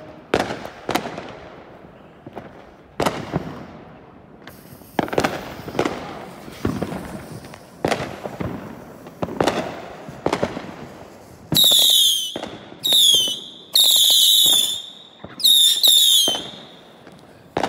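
Consumer fireworks: sharp bangs every second or so, each ringing out. Then, from about twelve seconds in, five loud, shrill whistles of half a second to a second each, from the whistling shots of a fireworks cake.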